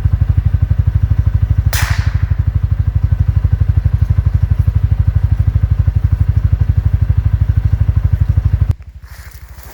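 A vehicle engine idles with a steady, rapid low pulse. A single gunshot cracks out about two seconds in, a shot at a bird that misses. Near the end the engine sound drops sharply in level.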